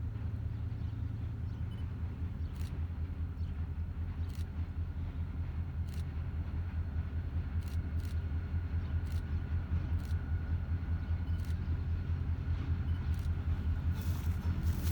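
A steady low engine rumble, slowly growing louder toward the end, with a few faint clicks.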